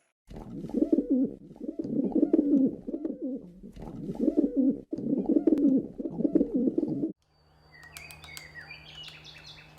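Birds giving low, warbling cooing calls in repeated phrases. About seven seconds in these break off, and faint high chirps and clicks follow over a steady low hum.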